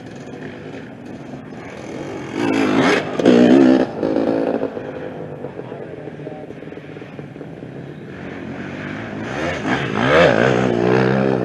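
Off-road racing motorcycles going past. One is loud from about two seconds in, revving with its pitch jumping up and down through the throttle changes. A second comes through near the end, its engine pitch sweeping up and then down.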